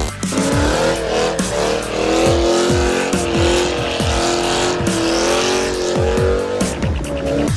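Car tyres squealing continuously in a long skid, the pitch wavering up and down. Deep bass beats from music thump underneath about twice a second.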